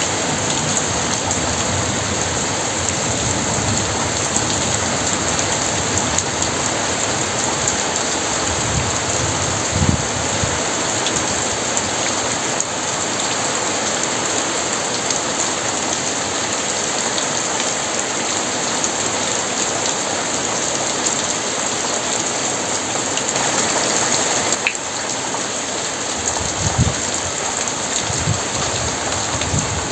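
Very heavy rain falling steadily and densely on surfaces, with two brief low thumps, one about ten seconds in and one near the end.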